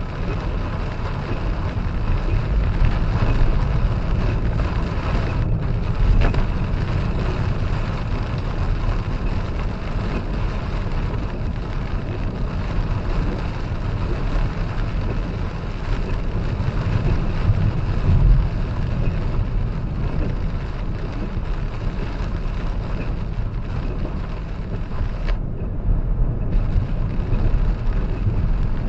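Steady noise of a car driving in a rainstorm, heard from a dashcam: a low rumble of road and engine under an even hiss, the hiss briefly thinning near the end.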